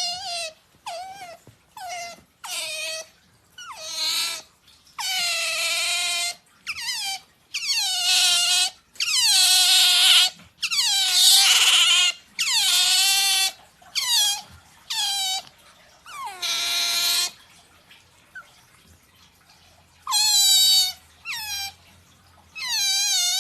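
Pet otter making its pampering noise: a long run of high-pitched squeaking calls, each falling in pitch, some short and some drawn out for a second or more, with a pause of a couple of seconds about three-quarters of the way through.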